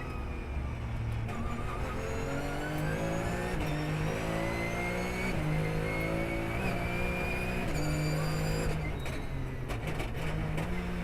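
Porsche race car engine at full throttle, revs climbing and dropping back several times as it shifts up through the gears, with a high whine rising alongside. Near the end the engine lifts off with a few sharp clicks, then starts pulling again.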